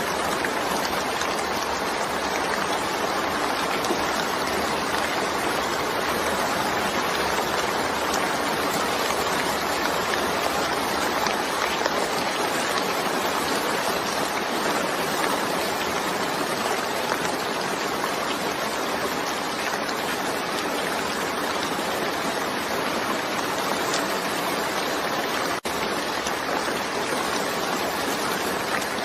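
Steady, even downpour of rain, a constant hiss of water, with no thunder heard; the sound drops out for a split second near the end.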